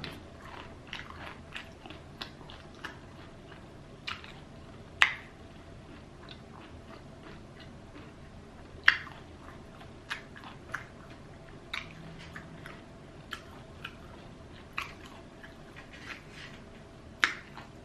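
Close-up eating sounds of Popeyes fried chicken: the crispy crust crunches under bites, with chewing in between. The loudest crunches come about five and nine seconds in and near the end.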